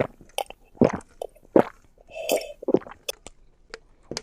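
Close, wet mouth sounds of someone chewing pizza: a string of short smacks and clicks, irregularly spaced.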